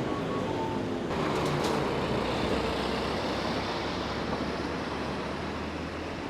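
Hankyu Kyoto Line commuter train running, heard from inside the carriage: a steady rumble of wheels and motors that grows louder about a second in.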